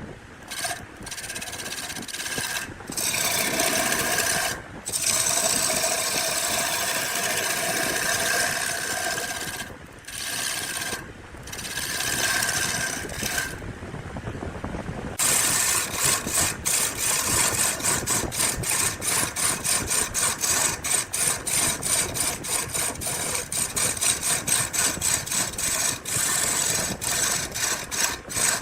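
Woodworking tools on wood. A powered tool runs with a steady whine, stopping briefly several times, then pauses about halfway through. After that comes rapid rhythmic scraping or rasping, about three to four strokes a second.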